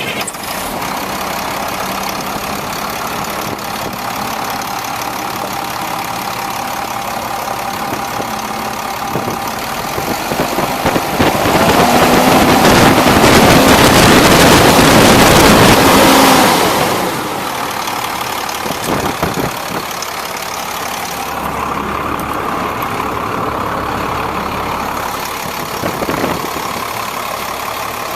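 International 4900 truck's diesel engine idling steadily. About ten seconds in it is run up to high revs and held loud for about five seconds, then drops back to idle.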